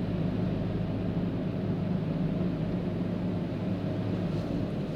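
Steady low mechanical hum heard from inside a car in a drive-through car wash, even and unbroken throughout.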